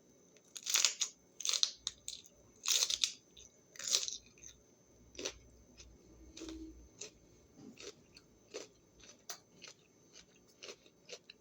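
Close-up crunching bites into a raw vegetable snack, four loud crunches in the first four seconds, then quieter chewing clicks at a slower pace.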